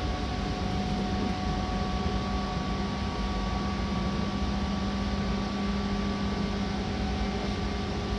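Seibu Red Arrow limited express train running at speed, heard from inside the passenger car: a steady rumble of wheels on rail with a constant low hum.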